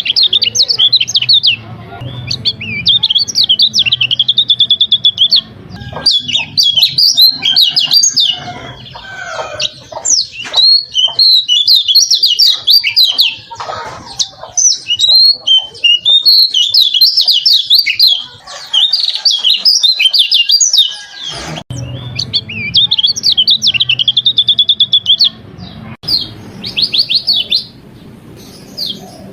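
Kecial kuning (a Lombok white-eye) singing a long, varied song of fast, high chirps and trills, with a short pause about three quarters of the way through.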